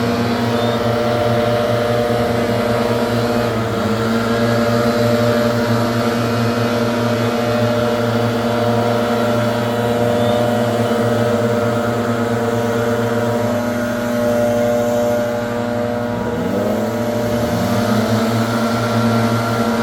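Leaf blower engine running steadily at high throttle. About 16 seconds in, the engine speed drops briefly and then climbs back up.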